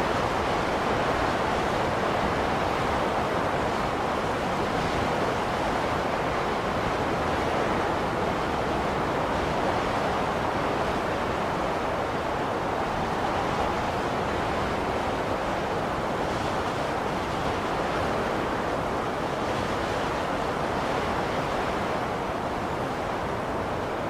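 Blizzard wind blowing steadily: an even rushing noise with no gusts, breaks or separate sounds.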